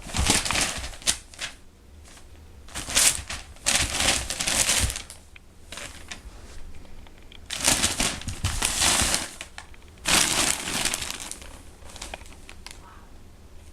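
Newspaper pages rustling and crinkling as a kitten pounces on and tussles with them, in four bursts of a second or two with quieter pauses between.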